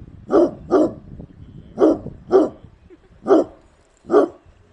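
A dog barking: six short, loud barks, some in quick pairs, with uneven gaps between them.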